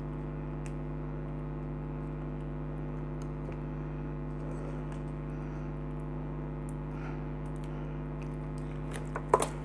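A steady low hum with faint, scattered small clicks of parts and tools being handled. Near the end comes a quick cluster of sharp clicks and knocks.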